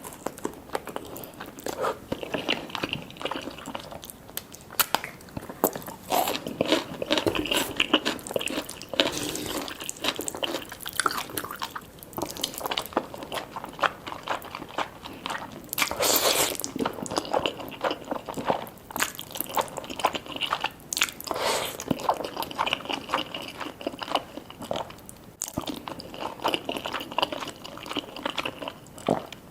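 Eating sounds close to the microphone: crisp fried chicken being bitten and chewed with steady irregular crunching and crackling, with softer wet chewing between the bites.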